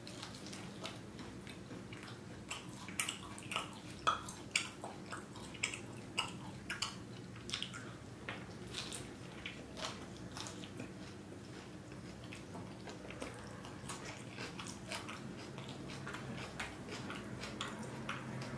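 Biting and chewing a soft tortilla wrap: a run of short sharp mouth clicks and smacks, thick in the first half and thinning out toward the end.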